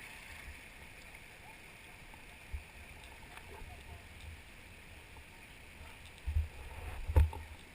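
Steady rush of whitewater river water heard from a raft, with a few low bumps and one sharp knock near the end.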